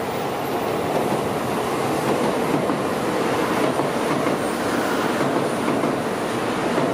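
Train running on the tracks beside the platform: a steady noise of wheels on rails, a little louder from about a second in.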